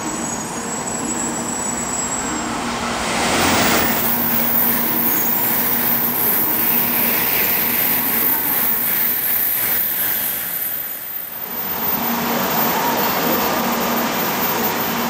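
Running noise inside the driver's cab of a 700 series Shinkansen at low speed: a steady rushing noise over a low hum. It swells loudly about three to four seconds in and dips briefly past the middle.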